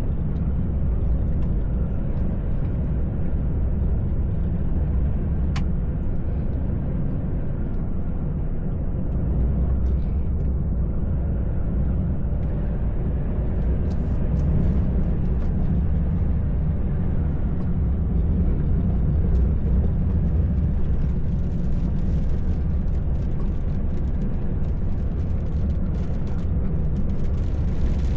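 Truck engine and road noise as a steady low rumble from inside the cab, with some faint high ticks in the last third.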